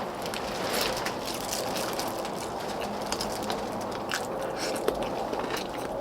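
Close eating sounds from a meal of pork-bone stew: chewing, with scattered light clicks of spoons and chopsticks against bowls.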